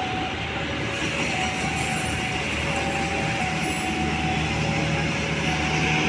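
A train running on the rails: a steady rumble of wheels, with a faint whine coming and going, getting slightly louder near the end.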